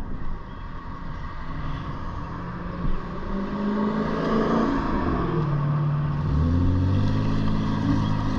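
A motor vehicle's engine running close by, its pitch dipping and then climbing as it accelerates and getting louder toward the end, over a steady rushing noise and a faint steady whine.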